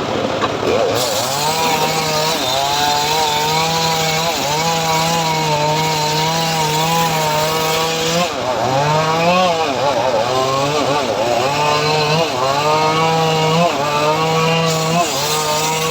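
Engine-driven homemade saw rig cutting teak wood. The engine runs throughout, its pitch sagging under load and picking back up every second or two. A cutting hiss comes in about a second in, drops away about halfway through and returns near the end.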